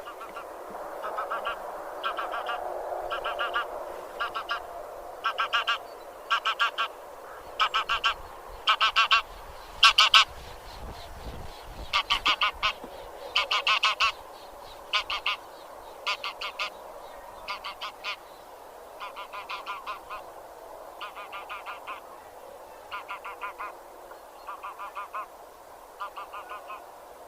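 Geese of the genus Anser honking: runs of two to four short calls come about every second, over a steady background of more calling from a flock.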